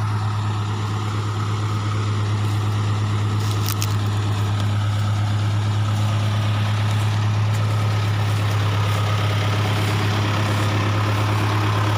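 Vehicle engine running steadily at idle, a constant low hum.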